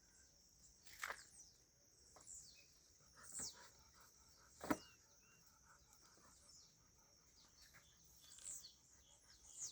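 Faint rural ambience: a steady high insect hum, with a few short bird calls sweeping down in pitch about a second, three and a half and nearly five seconds in, the last the loudest.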